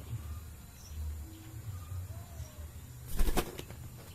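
Pet parrot flapping its wings in a short, rapid burst about three seconds in, after a few faint soft whistles.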